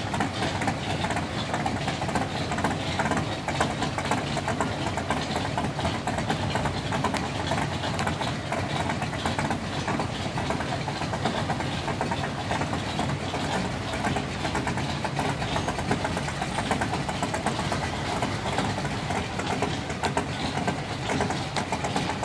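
Car engine idling steadily, with a fast, even pulsing beat.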